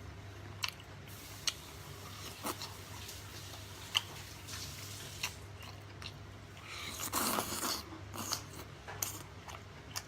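A person eating: chewing and biting with scattered sharp clicks and crunches, and a louder, longer noisy stretch about seven seconds in.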